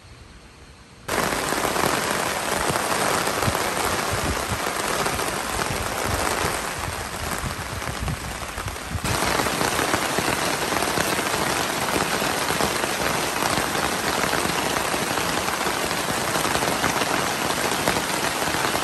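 Heavy rain pelting a DD tarp overhead and the gravel around it: a dense, steady hiss that cuts in abruptly about a second in.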